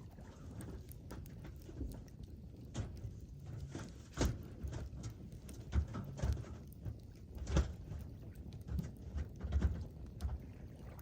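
Wood campfire crackling: irregular sharp pops and snaps, several louder ones through the middle, over a low steady rumble.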